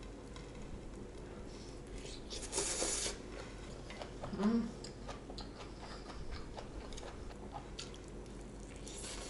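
Close chewing and wet mouth sounds of a person eating mixed rice with clams and vegetables (blood clam bibimbap), with small clicks throughout. A breath hisses about two and a half seconds in, and a brief low hum of the voice comes about two seconds later.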